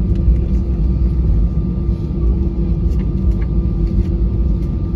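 Airbus A320 cabin noise on the ground after landing: a steady low rumble with a constant hum running through it.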